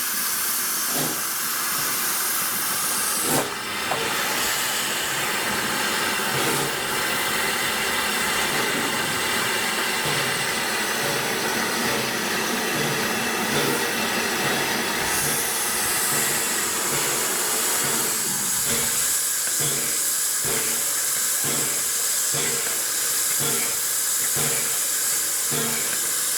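Steam locomotive hissing steam continuously. About two-thirds of the way through, a regular beat sets in and keeps going.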